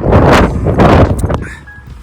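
Strong wind buffeting the microphone in two loud gusts, fading about a second and a half in.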